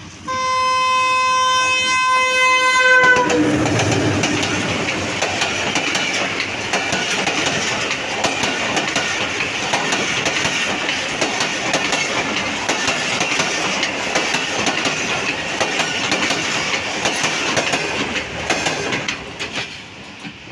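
A locomotive horn gives one long blast of about three seconds that drops in pitch as the engine passes. A passenger train then rushes by at speed, its wheels clattering steadily over the rail joints, fading as the last coaches go past near the end.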